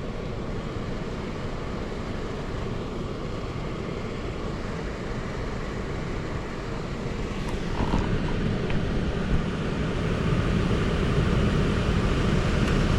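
Air handler's X13 blower motor running with a steady rush of air and low hum, while the 10 kW electric heat strips are called on through a jumper from R to W. A couple of light clicks come about seven to eight seconds in, and the sound then grows louder.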